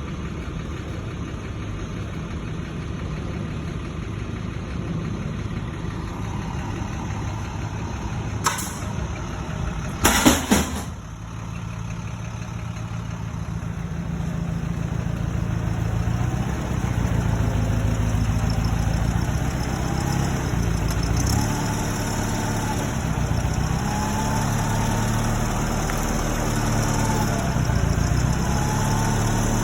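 Engine running steadily, with a short loud clatter about ten seconds in. After that the engine grows louder and its pitch rises and falls again and again, as when it works under changing load.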